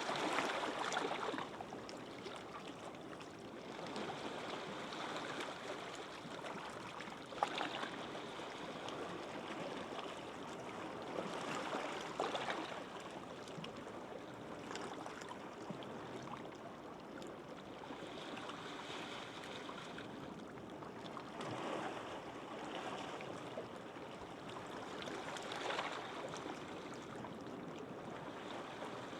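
Gentle sea waves washing onto a beach, a steady wash that swells every three to four seconds as each small wave breaks.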